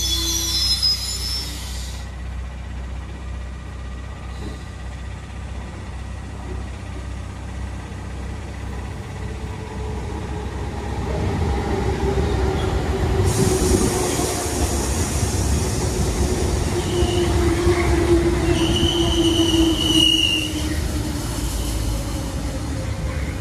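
Two RER commuter trains: the first pulls away with a high wheel squeal in the first second or so. A second then rolls in, its wheel and motor noise building with a slowly falling whine as it slows, and a short high brake squeal about 19 to 20 seconds in as it comes to a stop at the platform.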